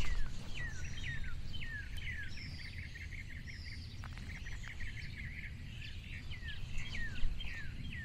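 Outdoor birdsong: a bird repeats short whistled notes that drop sharply in pitch, about two or three a second, with a quick chattering trill of chirps in the middle and thinner high calls above. A steady low rumble runs underneath.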